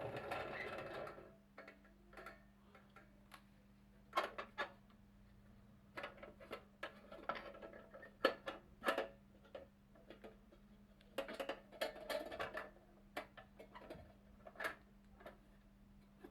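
Marbles rolling and clacking down a HABA wooden marble run: irregular clicks and knocks in bunches, with a denser clatter in the first second and a faint steady hum underneath.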